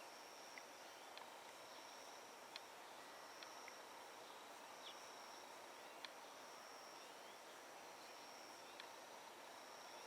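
Near silence with a faint, high-pitched insect-like trill repeating about once a second, and a few short, sharp chirps scattered through it.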